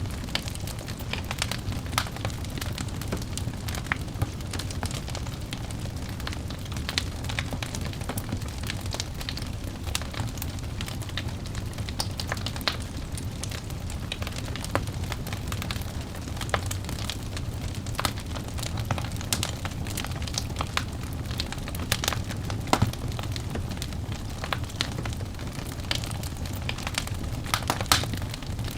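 Wood fire burning in a fireplace: a steady low rumble of flames with frequent sharp crackles and pops, a few louder pops near the end.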